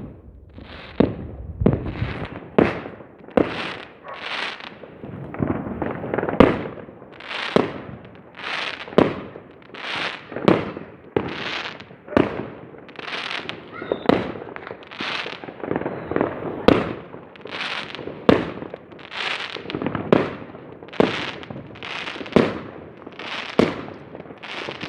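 Fireworks going off in a long, fairly even series of sharp bangs, roughly one to two a second, each followed by a short crackling, echoing tail.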